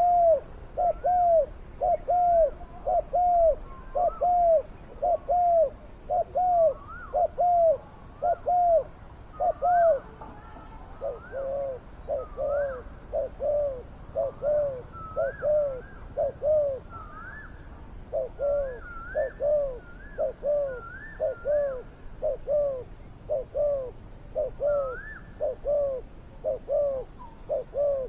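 Spotted doves cooing: a rapid, steady run of repeated coo notes, with a second, higher gliding call joining about a third of the way in, a brief pause past the middle, then the cooing going on to the end.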